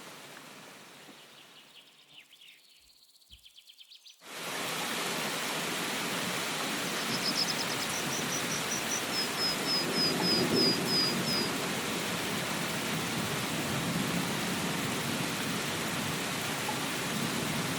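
Steady rain falling, cutting in suddenly about four seconds in after a quieter, fading start. A bird gives a quick series of short high chirps partway through.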